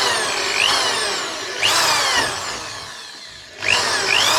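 Corded mains electric drill running a rotary file, the trigger squeezed in bursts: the motor whine rises quickly in pitch and then sinks slowly, three times.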